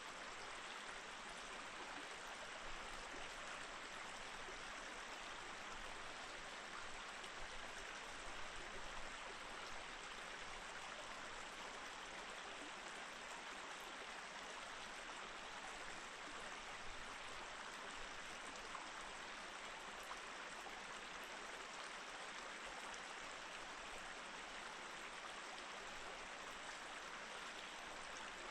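Small mountain stream running steadily over rocks, an even rush of flowing water with no change throughout.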